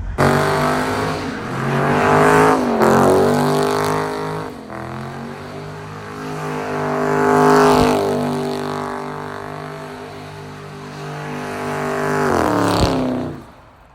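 Car engine revving loudly in three swells, its pitch dipping between them, then falling away and cutting off abruptly near the end.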